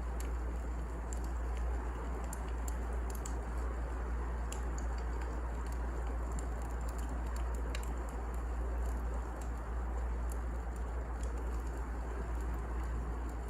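Wood fire crackling: irregular sharp snaps and pops over a steady low rumble and hiss.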